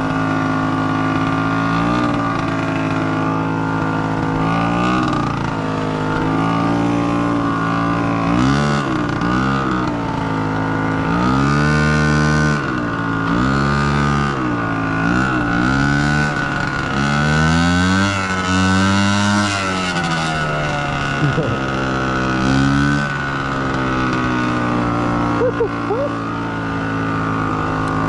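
Honda CRF150R dirt bike's single-cylinder four-stroke engine running and being revved up and down many times as the bike is ridden, with the pitch climbing and falling again and again.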